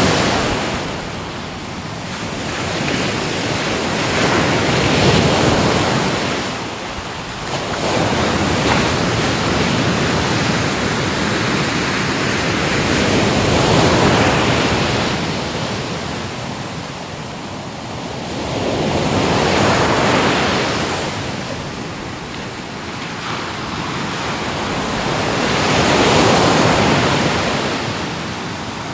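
Ocean waves breaking on a shore, each surge of surf swelling and then washing back, several times, every few seconds, with some wind noise.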